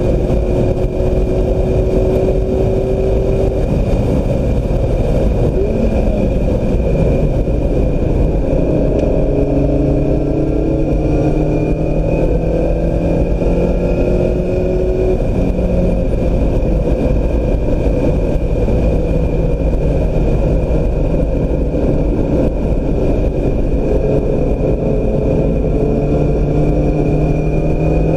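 Mazda MX-5 Miata's four-cylinder engine heard from inside the car on track, revving up through the gears and easing off again several times, over a loud constant rumble of wind and road noise. A thin, steady high whine runs underneath.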